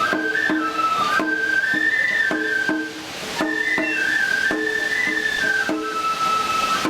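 Festival lion-dance music: a high Japanese bamboo flute plays a stepping melody over steady drum strikes, about two to three a second.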